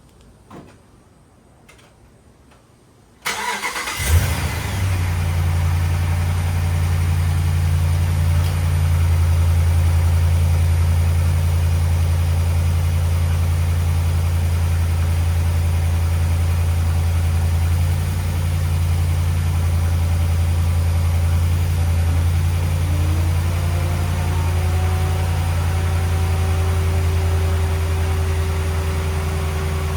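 2010 Ram 1500's 5.7 L Hemi V8, remote-started: a brief crank about three seconds in, catching at once and settling into a steady idle. It is running on a newly fitted ignition coil, a test of whether the cylinder 5 misfire (P0305) is cured. A faint whine rises and then holds steady near the end.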